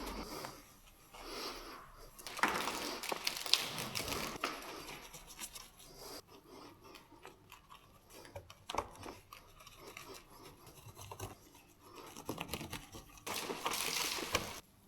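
Hand cleaning work on a car: irregular stretches of rubbing, scrubbing and rustling with scattered sharp clicks, the busiest about two to four seconds in and again near the end.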